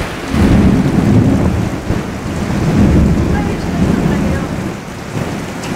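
Torrential rain pouring steadily, with a long, uneven low rumble of thunder rolling through most of it.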